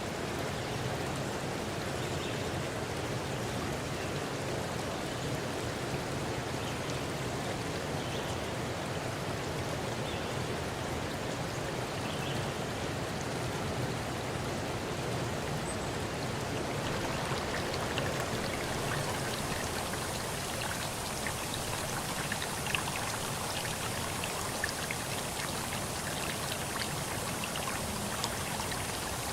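Steady rushing water, a continuous hiss that turns brighter about two-thirds of the way through, with scattered small drip-like ticks.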